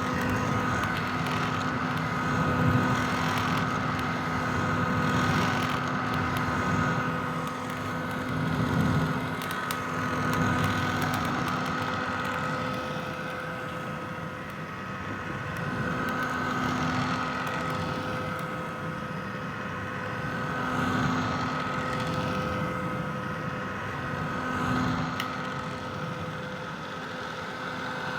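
Vintage hair dryer running continuously: a steady motor hum and whine over the rushing noise of its fan blowing air, swelling and easing in loudness every few seconds.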